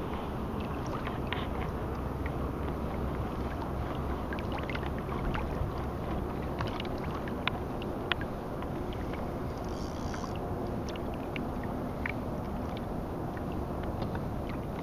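Water lapping and splashing against a kayak hull, with steady rumbling noise and many small scattered clicks and ticks.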